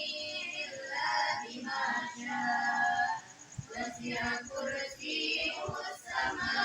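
Voices singing, several pitched lines that rise and fall throughout, with a faint steady high tone behind them.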